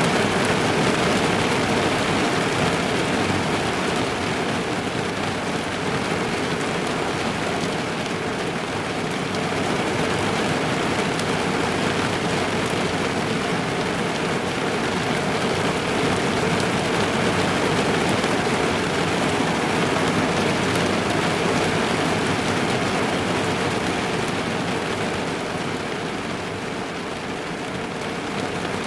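Rain falling on a car, heard from inside the cabin: a steady, dense rush of drops on the roof and glass, dipping slightly in level a few seconds before the end.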